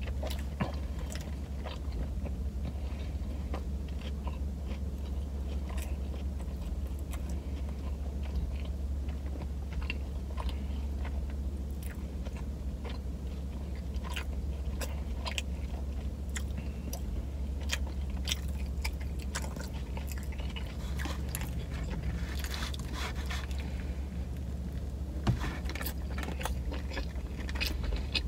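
Close-miked chewing and biting of a Philly steak sandwich, with wet mouth clicks throughout. A steady low hum runs underneath, and a few louder clicks come near the end.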